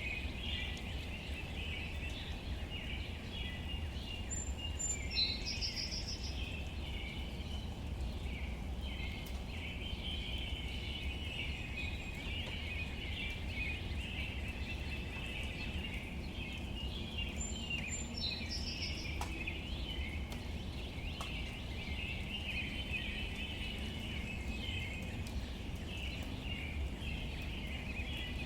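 Steady outdoor ambience of light rain on leaves, under a constant chorus of high chirping. Twice, about 13 seconds apart, a bird gives a short call: a high note followed by a quick trill.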